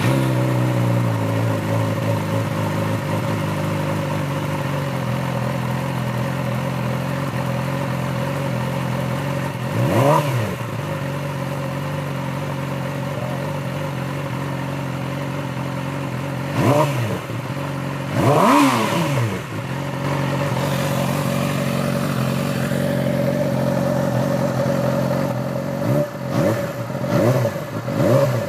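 2014 Yamaha R6's 600 cc inline-four idling through a TOCE aftermarket exhaust, with the throttle blipped into short revs about a third of the way in, twice around the middle, and several quick times near the end.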